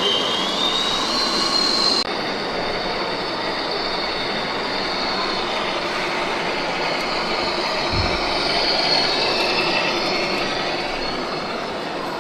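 High-pitched whine of a small electric motor rising in pitch over a steady noisy background, cut off abruptly about two seconds in. After that a steady hiss continues with a fainter high whine wavering above it, and a brief low thump about eight seconds in.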